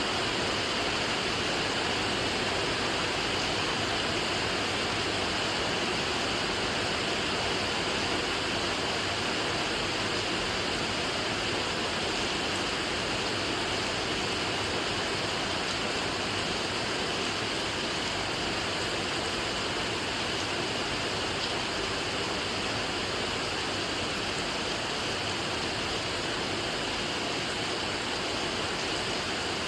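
Steady rain, heard as a continuous even hiss with no single drops, thunder or other events standing out.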